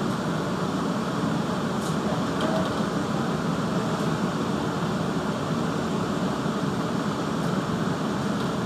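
Steady rumble of a CTA 'L' rapid-transit car running on elevated track, heard inside the car, with a couple of faint ticks.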